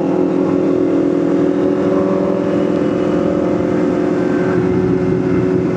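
Motorcycle engine running at a steady speed while riding, with an even pitch that neither revs nor drops.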